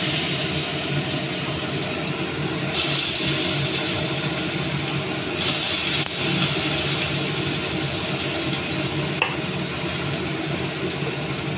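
Diced carrots sizzling in hot oil in a metal kadai, a steady frying hiss that is strongest in the first six seconds and then settles a little softer.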